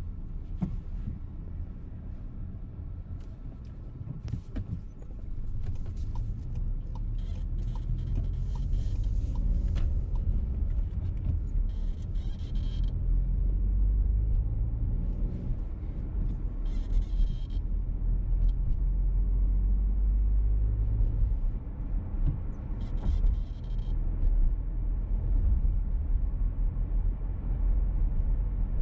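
Inside a VW T-Roc petrol car while driving: the engine and road rumble grow louder about five seconds in as the car picks up speed, then stay steady. Short higher-pitched bursts come and go every few seconds over the rumble.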